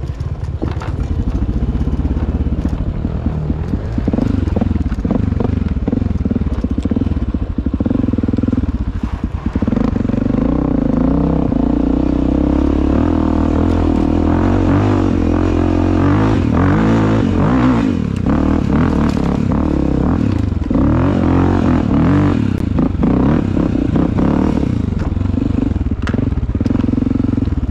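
Dirt bike engine revving under load, its pitch rising and falling again and again as the throttle is worked up a steep, rooty trail climb. Scattered knocks and clatter from the bike run through it.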